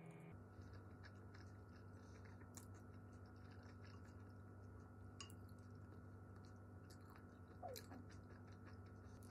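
Faint eating sounds: chewing, with small scattered clicks of a wooden spoon on a plate, over a steady low hum.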